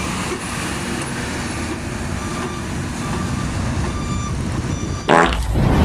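Heavy trucks and buses running in slow, jammed traffic, a steady engine rumble with faint short beeps. About five seconds in there is a brief horn-like blast, and the rumble grows louder.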